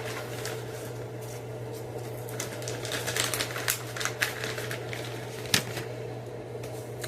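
Quick, crisp clicks and crackles from handling freeze-dried strawberries. They cluster in the middle, with one sharper click about five and a half seconds in, over the steady low hum of a running clothes dryer.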